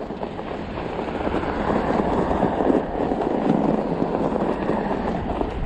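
Fat-tire e-bike rolling slowly over a rough, bumpy, snow-crusted sidewalk: a continuous crunching and rattling from the tires and frame.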